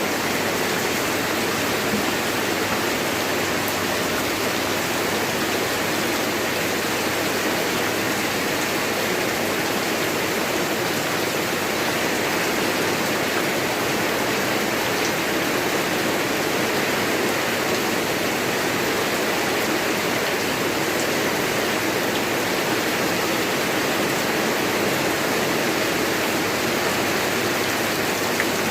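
Rain falling steadily: an even, unbroken wash of noise that neither builds nor eases.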